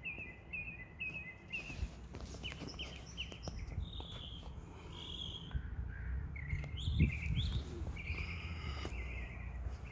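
Several birds chirping and singing in short, repeated trills that overlap one another, over a steady low rumble.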